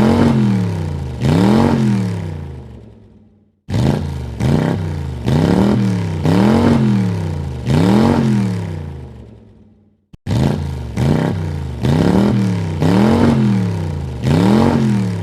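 Car engine revved in quick throttle blips, its pitch rising and falling with each blip. Three separate runs of several blips each die away to silence. A short click comes between the second and third runs.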